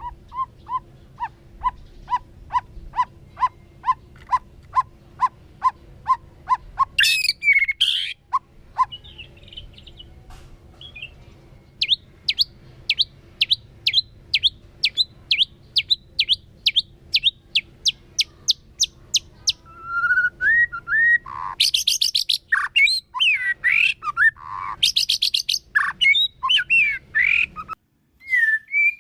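White-rumped shama singing: a steady run of short notes about three a second, then a run of rising notes at the same pace, then varied loud phrases with fast rattling trills near the end.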